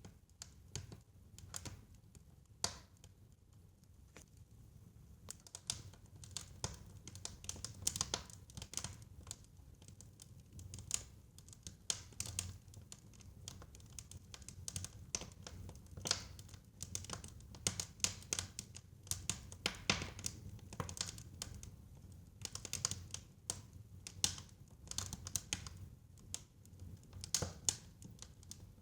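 Wood fire crackling in a fireplace: irregular sharp pops and snaps, sparse for the first few seconds and then coming thick and fast, over a low, steady rumble.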